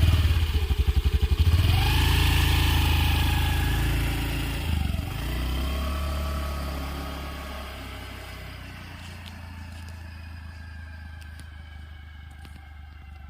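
Small motorbike engine starting with quick firing pulses, revving up, then running steadily and gradually fading, as when pulling away.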